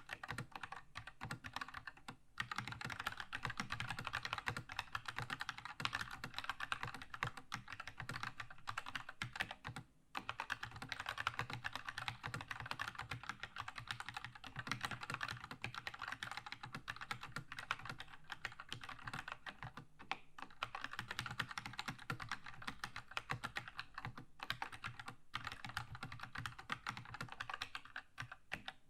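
Keychron K2 mechanical keyboard with red linear switches being typed on continuously at a fast pace, keys clacking in rapid runs. There are short breaks about two seconds in and about ten seconds in.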